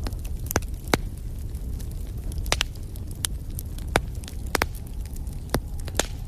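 Wood fire burning in a fireplace: about nine sharp crackles and pops at irregular intervals over a steady low rumble of the flames.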